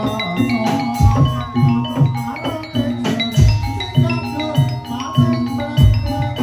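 Javanese gamelan music for kuda lumping: bronze metallophones and gong-chimes play a ringing melody over a steady drum beat of about two strokes a second.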